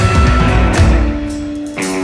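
Rockabilly band playing live, an instrumental stretch with electric guitar and drums. The drum hits stop about a second in, leaving held notes ringing, and the notes change near the end.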